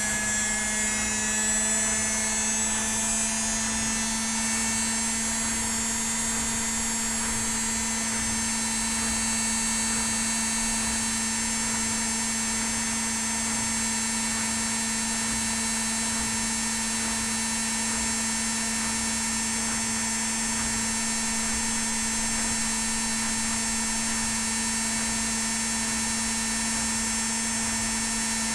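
Indesit WIL82 front-loading washing machine on its spin cycle, the drum turning at speed with a steady motor whine and hum; the pitch settles in the first few seconds and then holds level.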